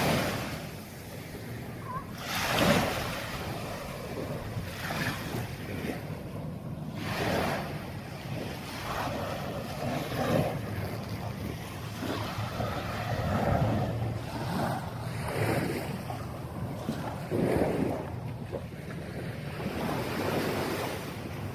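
Sea waves washing onto the beach, swelling and fading every few seconds, with wind buffeting the microphone.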